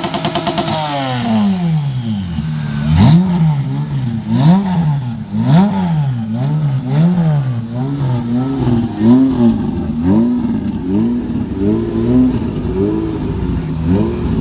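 A car engine revved over and over, each rev rising and falling in pitch about once a second, with a few sharp cracks in the first few seconds.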